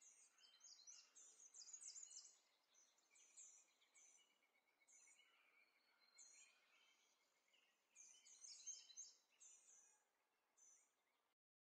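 Faint high-pitched chirps of small birds, short notes in quick runs about a second in and again near the end, over a faint steady hiss. The sound cuts off abruptly just before the end.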